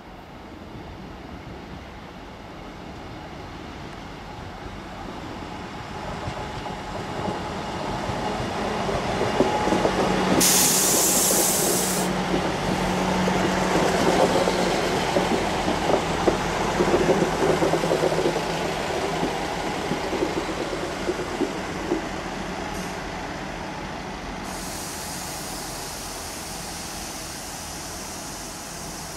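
A train moving through the station, growing louder to a peak midway and then fading, with a short sharp hiss about ten seconds in.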